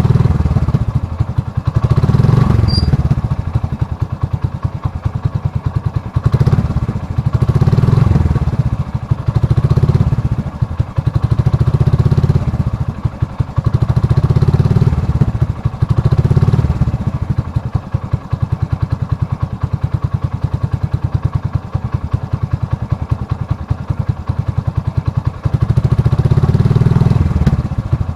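An engine running with a rapid, even pulse, its loudness rising and falling about every two seconds.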